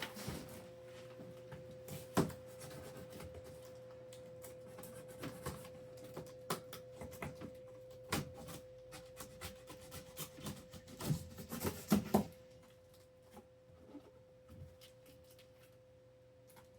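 A large cardboard shipping box being opened by hand: scattered knocks, scrapes and rustles of cardboard and packing tape, with a cluster of louder knocks about eleven to twelve seconds in.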